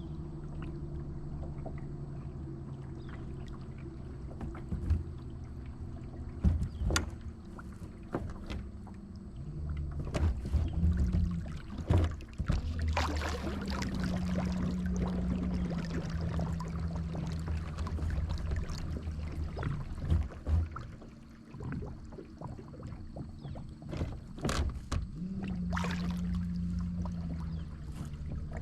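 Electric trolling motor running, driven through an RC-boat speed controller: a low steady hum that steps up and down in pitch as the throttle changes, over water noise, with occasional sharp knocks.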